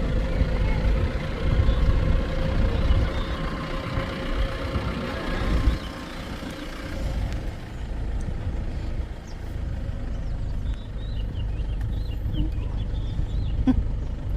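Safari jeep engine running with a low rumble and a steady whine that fades out about six seconds in, leaving a quieter rumble. Short high chirps come near the end.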